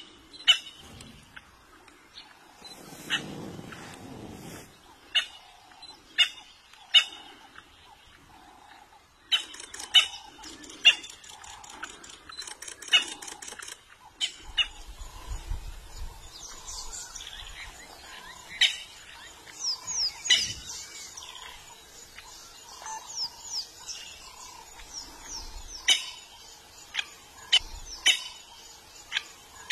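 Wild birds calling: sharp chirps repeating every second or so, joined from about halfway by a fast run of high, downward-sliding whistles.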